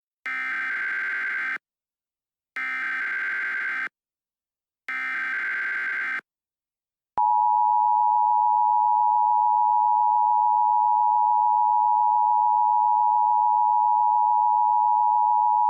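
Emergency Alert System tones opening an alert. First come three SAME header data bursts, each about a second and a half long with a second's gap between them. About seven seconds in, the louder, steady two-tone attention signal (853 and 960 Hz) starts and holds.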